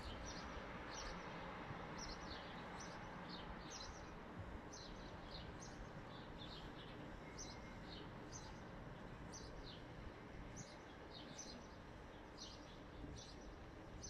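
Small birds chirping: short high chirps, several a second at times, over a faint steady hum of the distant city.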